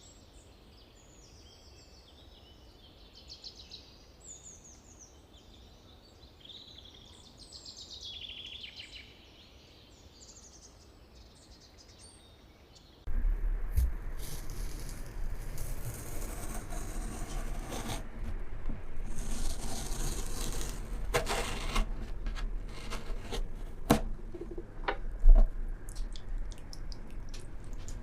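Small birds chirping and singing, many short calls overlapping. About halfway through, this cuts abruptly to a much louder close-up sound of handling and crunching, full of sharp clicks and snaps.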